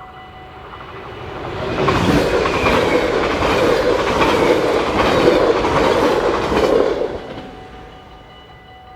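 A train passing over a Dutch level crossing. It swells quickly about two seconds in, its wheels clattering over the rail joints, and fades out a little after seven seconds. A steady warning-bell tone from the crossing signals rings underneath throughout.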